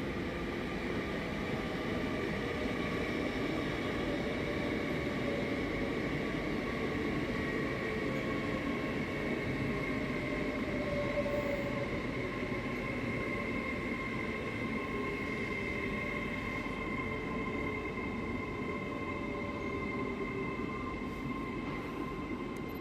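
A train running on the rails, with a steady high whine that drifts slightly lower in pitch over the rumble of the wheels.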